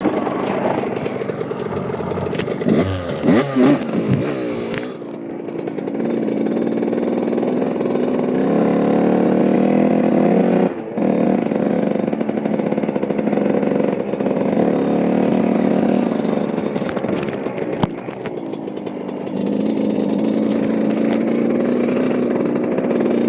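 Small off-road vehicle engines, from a Yerf-Dog go-kart and dirt bikes, running and revving. The pitch swings quickly up and down a few seconds in, then holds steadier with slow rises and falls as the engines speed up and ease off.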